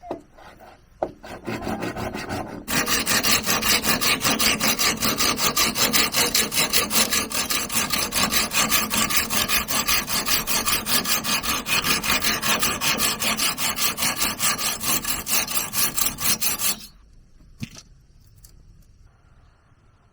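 A hand tool working wood in rapid, even back-and-forth strokes, about four a second, like sawing or rasping. It starts softly, grows loud a couple of seconds in, and stops abruptly near the end.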